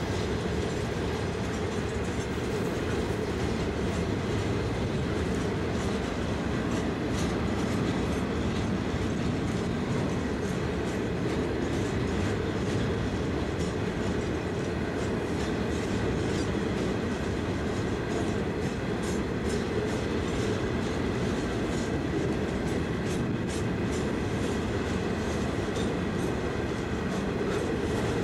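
Freight train's hopper wagons rolling past: a steady rumble of steel wheels on rail, with repeated clicks as the wheels cross rail joints.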